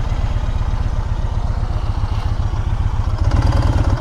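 Motorcycle engine running at low speed, a steady rapid low pulse from the exhaust, heard from the rider's seat.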